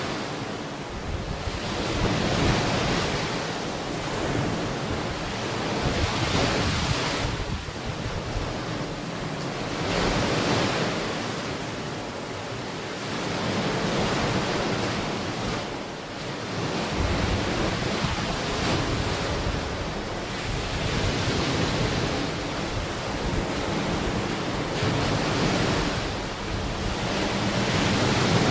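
Ocean waves breaking and washing onto a beach in a continuous surf wash that swells and ebbs every few seconds. A light wind rumbles on the microphone.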